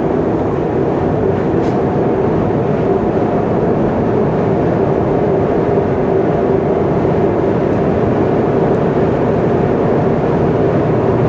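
Car cruising at expressway speed: steady tyre and engine noise with a constant low drone.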